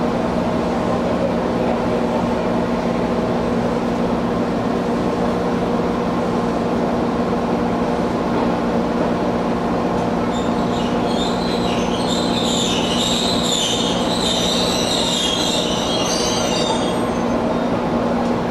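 Running sound heard inside an Izuhakone Railway 1300 series electric train car under way, with a steady drone from the strongly running air conditioning. From about ten seconds in, the wheels squeal high-pitched for about six seconds.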